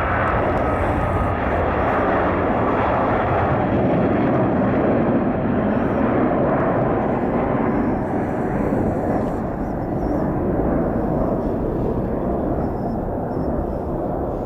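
Boeing 777-200ER twin-engine jet airliner at takeoff thrust: a steady, loud, deep jet rumble that eases slightly over the last few seconds as the aircraft moves away.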